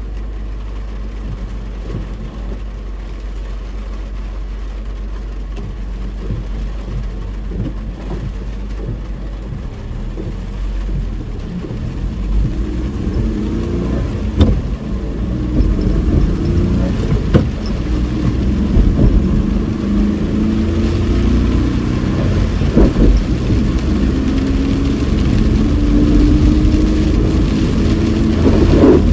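Inside a car on the move: a steady low rumble of road noise, then from about halfway through the engine pulls harder, its pitch climbing and dropping through gear changes, with a few sharp knocks.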